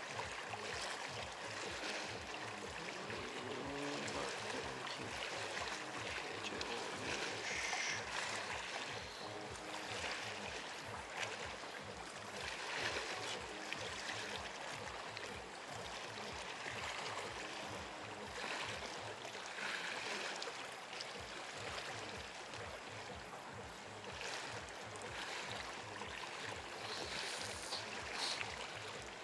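Sea waves washing steadily onto the shore, with repeated soft swells of surf.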